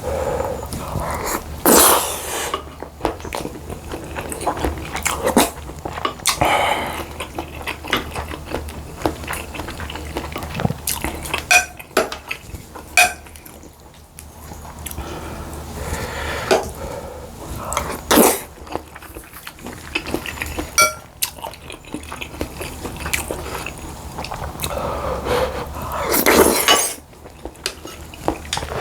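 Eating at a table: a metal spoon clinking and scraping against a ceramic bowl, with a few ringing clinks, between mouthfuls of rice and seaweed soup, along with chewing and slurping.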